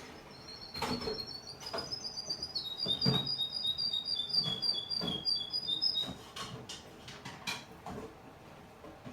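Young male Russian canary singing: fast trills of rapidly repeated high notes, stepping down in pitch about two and a half seconds in and stopping about six seconds in. Scattered short clicks and taps throughout.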